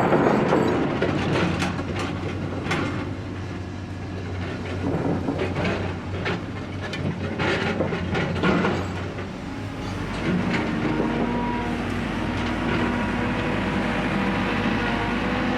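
Construction site ambience: a run of metallic knocks and clanks over a continuous rumble, giving way about ten seconds in to the steadier hum of a running engine with low rumble.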